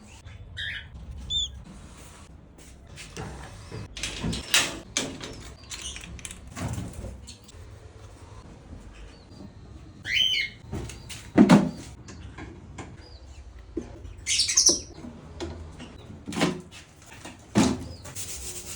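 Pet parrot giving a few short chirps and whistles among scattered clicks and knocks, with calls near the start and again around ten seconds in.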